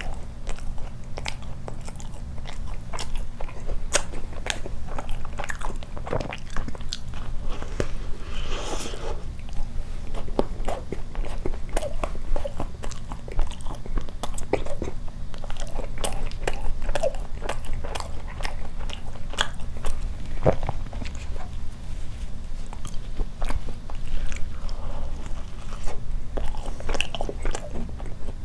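Close-miked biting and chewing of a soft, jam-filled glazed doughnut: a steady stream of small mouth clicks, over a constant low hum.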